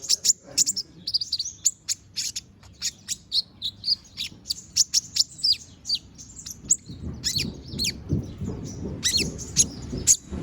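A konin (kolibri ninja) singing hard: a fast, unbroken run of short, sharp high chirps and quick falling notes, typical of a bird in full song even while moulting. A low rumble joins in during the second half.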